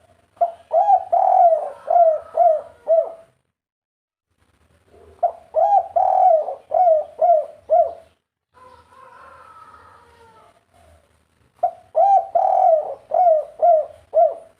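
Spotted dove cooing: three phrases, each a quick run of about seven pitched coo notes lasting some three seconds, with pauses of about two seconds between them.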